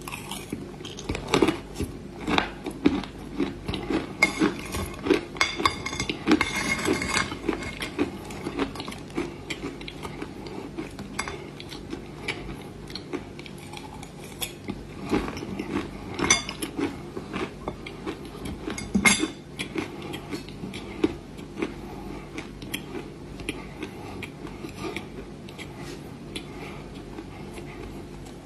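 Dry clay being bitten and chewed close up: many irregular sharp crunches and crackles. They come thickest in the first several seconds and again about halfway through, and are sparser near the end.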